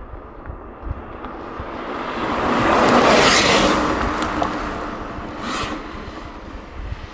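A car driving past, its engine and road noise swelling to a peak about three seconds in and then fading, followed by a shorter whoosh near the end.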